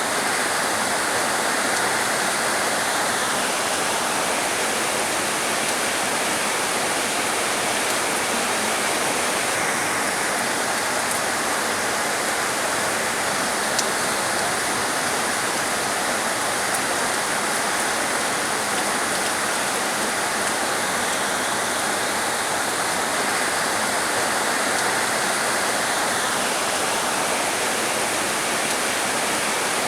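Heavy rain falling steadily, a dense even hiss. A brighter, higher layer of the hiss drops away a few seconds in, returns about ten seconds in, and fades again near the end.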